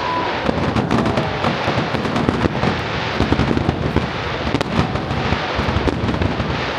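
Aerial fireworks bursting in a dense, unbroken barrage: many bangs and crackles overlapping, with no pause.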